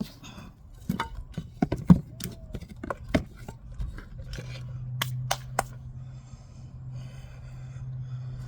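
A run of sharp clicks and taps from hands handling gardening things while planting seeds, then a steady low engine hum sets in about halfway through and carries on.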